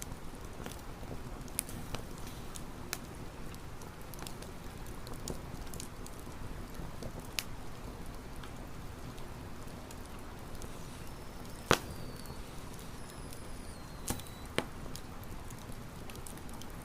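Wood campfire crackling, with scattered sharp pops over a steady low rumble of burning; the loudest pop comes about twelve seconds in. Faint high falling whistles are heard around the same time.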